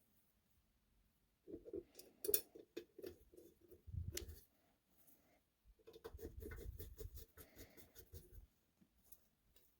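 Hands working with small parts at a workbench: scattered clicks, taps and scraping in two busy stretches, with a low knock about four seconds in.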